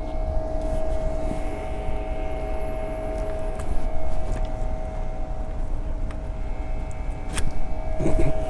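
Steady mechanical hum with a constant whining tone, and a single sharp click about seven seconds in.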